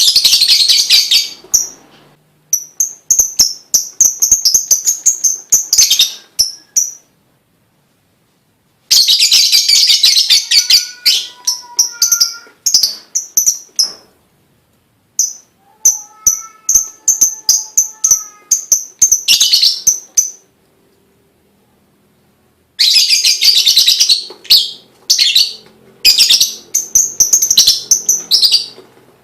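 Lovebird singing in long bouts of rapid, high-pitched chattering trills. Four bouts of several seconds each, with short silent pauses between them.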